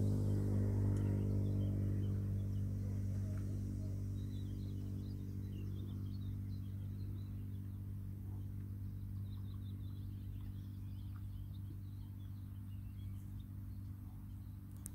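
Birds chirping faintly over a loud, steady low drone that slowly fades.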